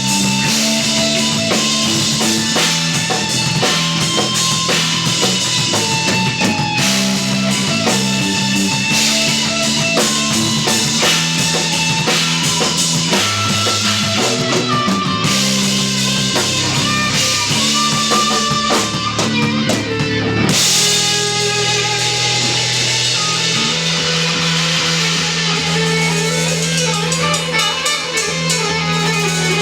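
Instrumental progressive/post-rock played live by a trio of electric guitar, electric bass and drum kit. About two-thirds of the way through the drums fall back, leaving held guitar and bass notes.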